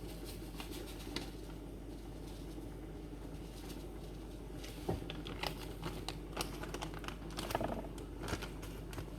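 Light, irregular clicks and taps of kitchen handling as chicken seasoning is added to the soup, starting about halfway through, over a low steady hum.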